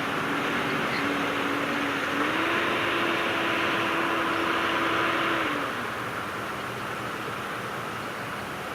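Heavy diesel engine of earthmoving machinery running under load, its pitch stepping up about two seconds in, holding, then falling back to a lower, quieter run after about five and a half seconds.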